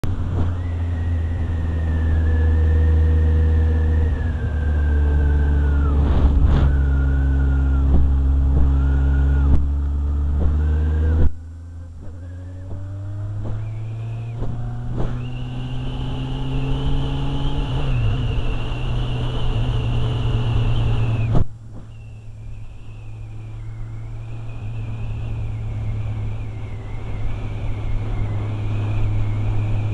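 Motorcycle engine running under way, heard from the rider's seat. The engine note drops abruptly twice, about eleven and about twenty-one seconds in, as gears are changed, and climbs again each time as it pulls.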